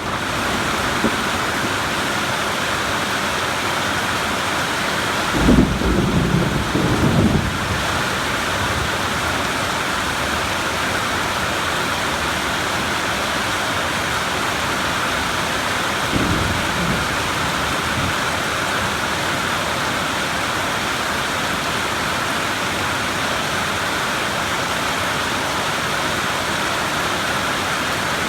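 Steady rain during a thunderstorm, with a low thunder rumble about five to seven seconds in and a fainter, shorter rumble around sixteen seconds.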